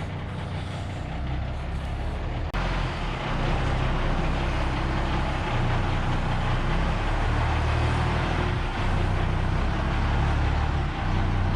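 Hay delivery truck's engine running steadily after starting; it drops out for an instant about two and a half seconds in and carries on a little louder.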